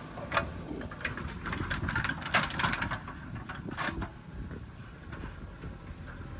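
JCB 3DX backhoe loader's diesel engine running, with a string of short clatters and scrapes over the first four seconds, then a steadier, slightly quieter run.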